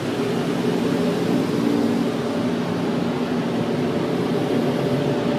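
Automatic car wash machinery running, heard from inside the car: a steady whooshing noise with a low hum underneath.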